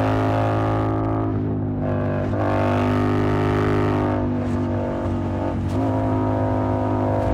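Yamaha MT-07's parallel-twin engine running through an SC-Project aftermarket exhaust while cruising at steady revs, its note shifting briefly a few times.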